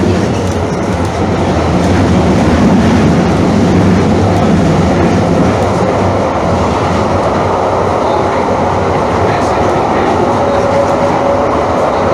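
Calgary CTrain light-rail car running along the track, heard from inside the car: steady wheel-and-rail noise, with a faint whine coming in near the end.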